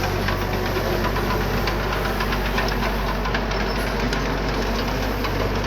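Diesel engine of a piece of earthmoving equipment running steadily under light load, with a low hum and a fast, even clatter over it.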